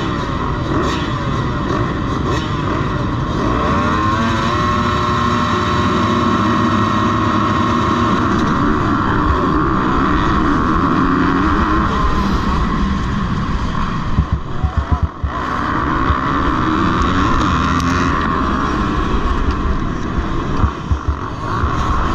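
Motocross bikes racing, their engines revving hard with the pitch rising and falling as riders accelerate and shift, several engines overlapping.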